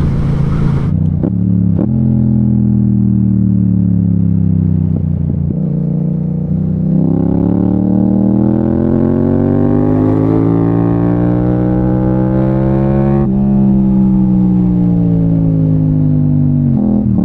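Yamaha MT-07's parallel-twin engine through an Akrapovic exhaust: the revs fall away over the first few seconds, then rise steadily under acceleration for about six seconds, drop sharply at a gear change about 13 seconds in, and ease off near the end.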